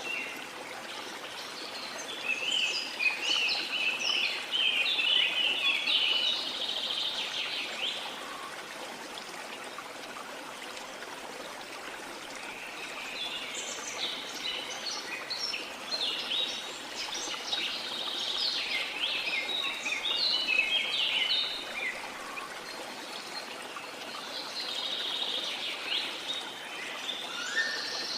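Steady running water, with several birds singing in bursts of quick high chirps and trills over it, three times in the stretch.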